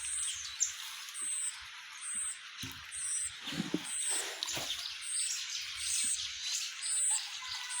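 A short, high-pitched chirp repeating about once a second over a steady hissing, rustling background, with a few dull knocks around the middle.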